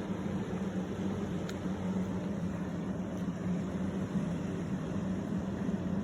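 Jet ski engine running at a steady pitch, a constant drone over an even rushing noise.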